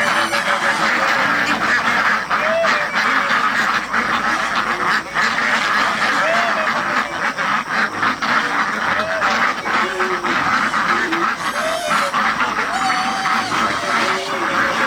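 A flock of ducks and geese calling over one another, with quacks and short honks repeating every second or so.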